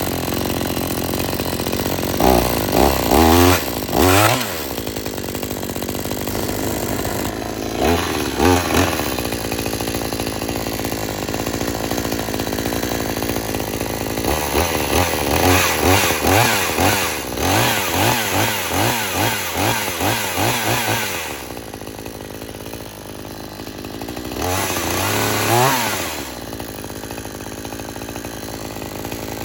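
46cc two-stroke petrol chainsaw idling shortly after a cold start, revved in short blips: a few at a time near the start, a couple more a few seconds later, a long run of repeated revs in the middle, and one last group near the end.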